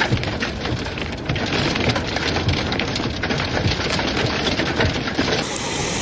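Heavy rain with hail pelting hard surfaces: a dense, steady patter of many sharp impacts. The sound shifts slightly about five seconds in.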